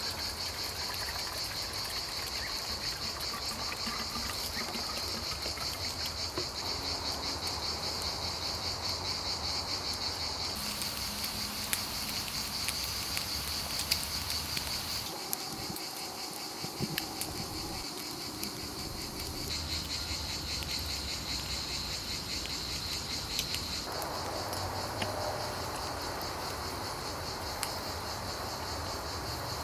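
Crickets chirping in a steady, fast pulsing trill, with a few scattered sharp clicks. The background changes abruptly several times, as at cuts between shots.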